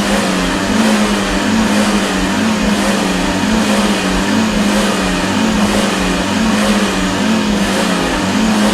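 Car engine revved up and down in a steady rhythm, about once a second, as the accelerator pedal is pumped.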